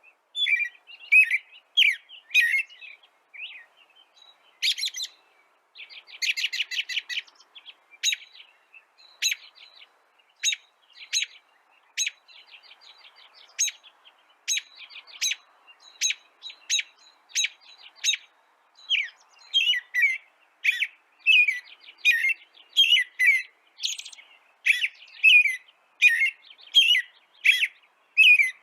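Songbirds chirping: a steady string of short, sharp high notes in quick runs, with a brief rapid buzzy trill about six seconds in.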